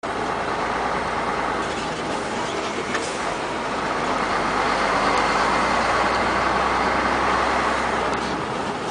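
Heavy trucks passing on a highway: steady engine and tyre noise with a low hum, growing louder about halfway through.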